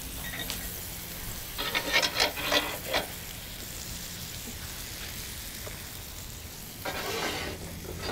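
Cheeseburger patties sizzling on a hot cast-iron Ooni Grizzler plate. Twice, about a second and a half in and again near the end, the plate is handled and slid, giving brief scraping clatter.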